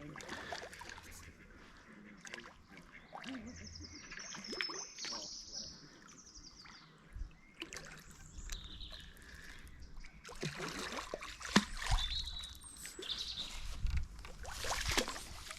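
Small birds chirping and calling outdoors. Sharp clicks, knocks and rustling from handling come in from about two-thirds of the way through.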